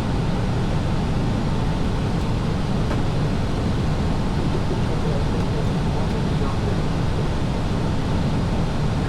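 Steady engine and airflow noise of an Airbus airliner in flight, heard from inside the aircraft: a constant deep rushing drone.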